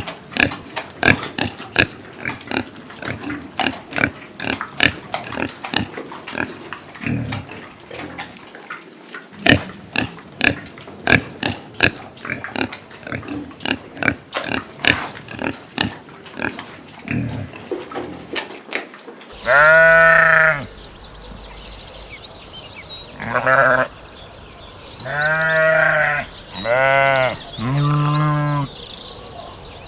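Pigs grunting in quick, short grunts, several a second. About two-thirds of the way in, the sound changes to a sheep bleating five times in long, wavering calls.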